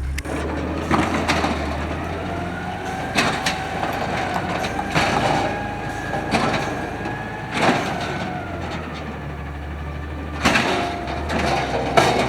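2012 automated side-loader garbage truck running, with a steady hydraulic whine that slowly rises and falls as it works and several sharp knocks and bangs of its arm and packer handling recycling.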